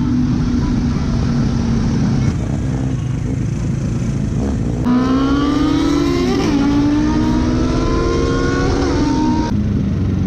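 Motorcycle engine running at speed over wind and road noise. In the second half the engine note climbs steadily under acceleration, with two short dips that fit gear changes. The sound changes abruptly a few times, as at cuts.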